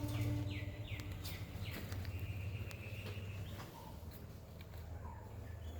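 High animal calls: four quick chirps, each falling in pitch, then a longer held high note, over a steady low hum.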